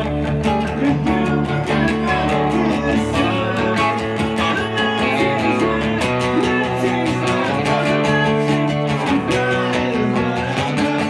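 Guitar-led live band music with strummed guitar keeping a steady rhythm.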